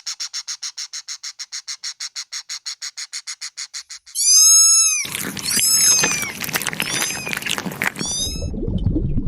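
Animal calls: a fast, even trill of about seven or eight pulses a second for four seconds, then a run of short, high squeaky calls that fall in pitch.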